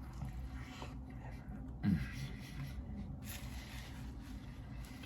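Quiet eating sounds of a burger being chewed, with soft rustling and rubbing, over a low steady background hum.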